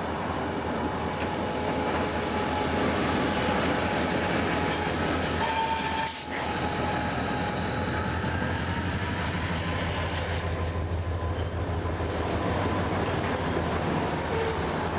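Train wheels squealing as the cars roll past: one long, high-pitched squeal that slowly drifts up and back down in pitch, over the steady rumble of the moving train.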